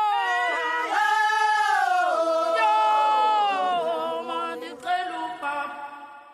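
Voices singing long held notes that slide between pitches, fading out near the end.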